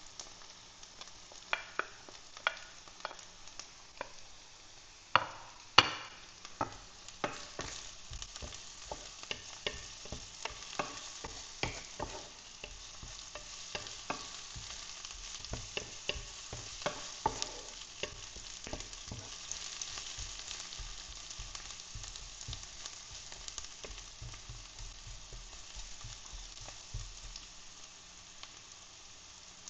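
Onion and garlic frying in hot oil, a steady sizzle, with a utensil stirring and clicking against the pan. Two louder knocks come about five and six seconds in.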